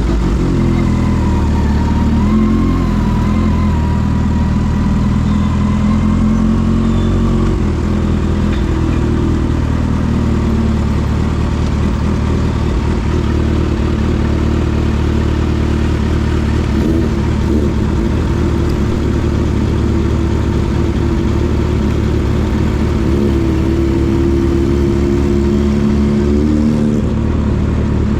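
Kawasaki H2 motorcycle engine running under way, loud and steady, its pitch rising and falling a little with the throttle.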